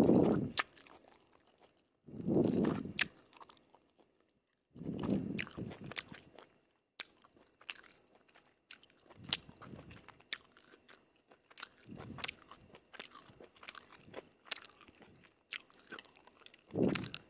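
Close-miked chewing of stir-fried yellow noodles with gravy: a steady run of wet mouth clicks and crunches, with a louder, deeper mouthful sound every few seconds.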